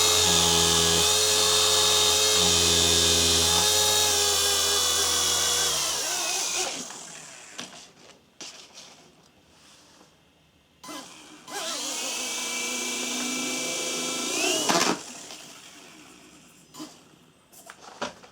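WLToys V911 micro RC helicopter's electric motor and rotor running with a steady high whine, winding down about six seconds in. It spins up again around eleven seconds, briefly revs higher near fifteen seconds and cuts off, with small clicks in the quiet gaps.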